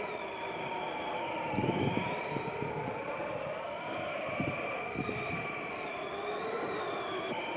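Blizzard wind howling and whistling in slowly wavering tones, with low thumps of gusts.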